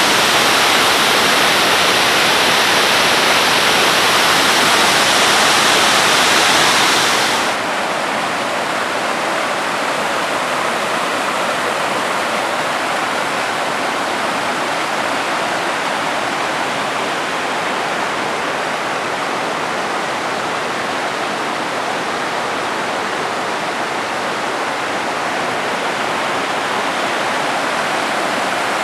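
Waterfall, a steady rush of falling water; about seven seconds in it drops in level and loses its hiss, becoming a duller rush.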